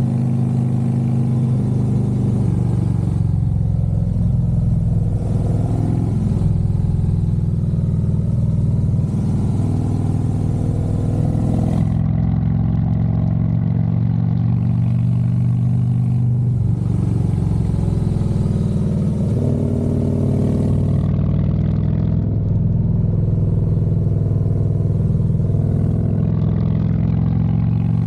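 Harley-Davidson Road Glide's V-twin engine running under way, its note rising and falling a few times with the throttle, with wind hiss that comes and goes.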